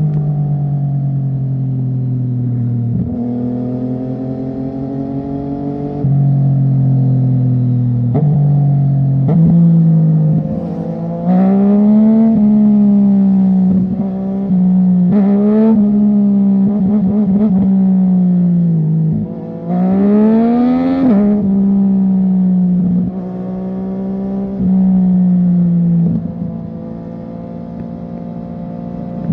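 Sport motorcycle engine on a loud aftermarket exhaust at highway speed. Its pitch climbs and drops with the throttle, breaking off at each gear change. There are sharper revs about a third of the way in and again about two-thirds of the way in.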